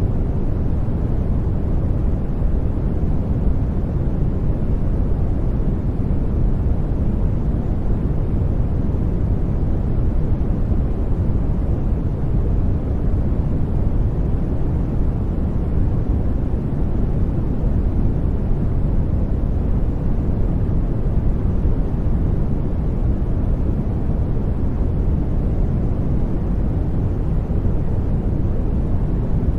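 Steady brown noise: a deep, even rumble of random noise with most of its weight in the low end and little in the highs, unchanging throughout.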